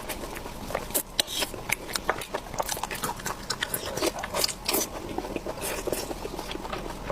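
A person chewing and biting food close to the microphone: wet mouth sounds with irregular crunchy clicks, a few sharper than the rest.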